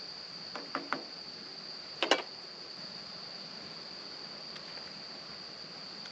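A steady, high-pitched chorus of insects trilling without a break. A few sharp clicks come through about a second in, and a louder knock about two seconds in.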